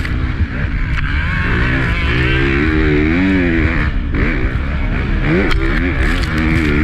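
Honda CRF250 single-cylinder four-stroke motocross engine racing under load, its pitch rising and falling again and again as the throttle is worked, with a brief dip about four seconds in.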